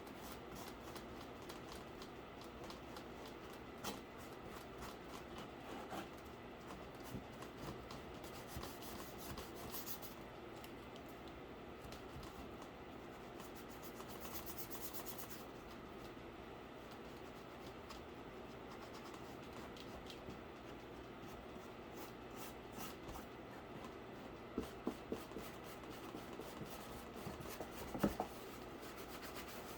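Quiet rubbing and scratching with scattered light clicks, two brief high hissing passages, and a few sharper taps near the end.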